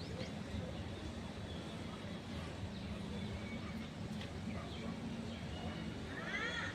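Scattered short bird calls over a steady low rumble, with a brief run of several arched, chirping calls near the end.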